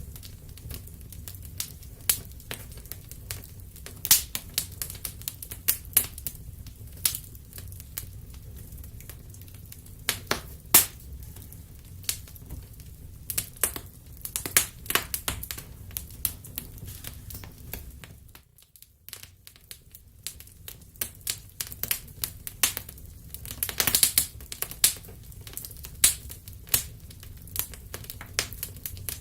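Wood fire crackling in a fireplace: irregular sharp pops and snaps over a low steady rumble. The sound drops out for a moment about two-thirds of the way through.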